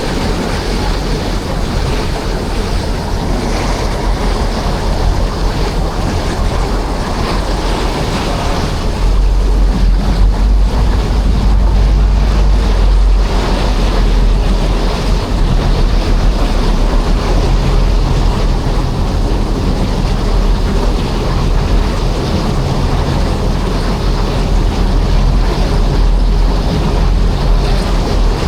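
Bosphorus commuter ferry under way: a steady low rumble of the engine mixed with water rushing past the hull and wind buffeting the microphone. The low rumble grows stronger about nine seconds in.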